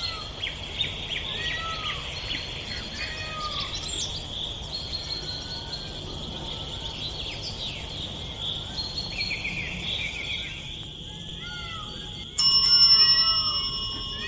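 Tropical forest ambience: a steady high insect drone with many short bird chirps throughout. About twelve seconds in, a loud ringing, bell-like tone starts suddenly and slowly fades.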